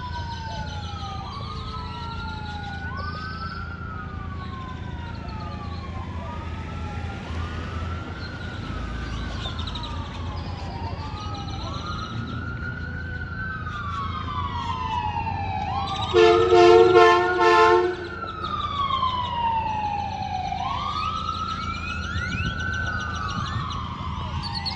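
Fire apparatus sirens wailing, several overlapping sweeps rising and falling, including the slow wind-up and wind-down of a Federal Q mechanical siren. About 16 seconds in, Buell air horns give a loud run of short blasts lasting about two seconds.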